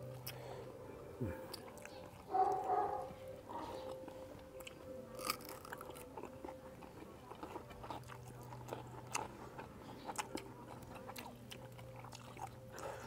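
People chewing and biting food, with many small crunches and mouth clicks, over a faint steady hum.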